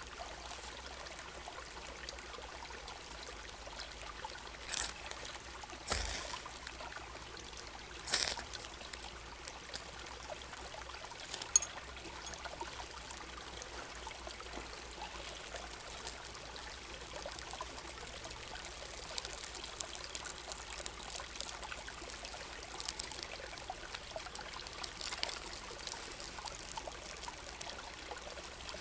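Creek water running steadily, with a few short sharp scrapes or knocks over it, the loudest about twelve seconds in.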